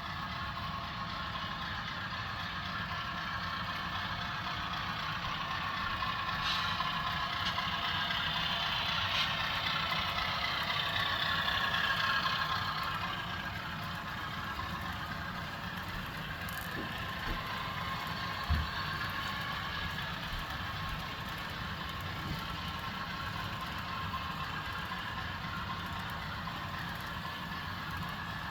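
HO scale model Sharknose RF-16 diesel locomotive hauling a container train, with a steady engine-like running sound that swells louder between about six and thirteen seconds in. A single sharp knock comes about two-thirds of the way through.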